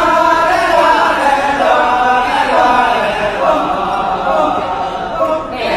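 A chorus of voices chanting and singing together in Balinese kecak, held at an even loudness, with a short dip near the end.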